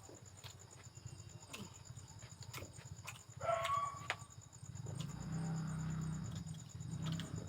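Close-up eating sounds: chewing with scattered sharp clicks. A brief pitched squeak about halfway is the loudest moment.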